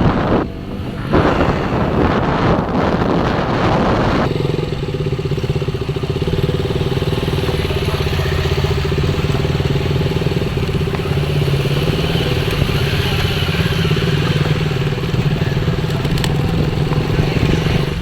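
Motorcycle engine running steadily on the move. The first few seconds are a loud rushing noise that changes suddenly about four seconds in to a steady low engine drone.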